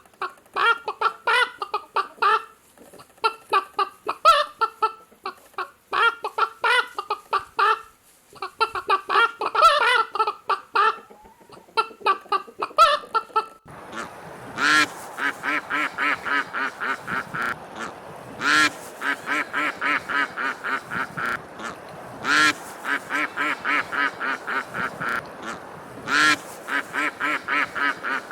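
Chickens clucking in irregular bursts of short calls. About halfway through, ducks take over, quacking in a fast, steady run over a background hiss, with a louder call every few seconds.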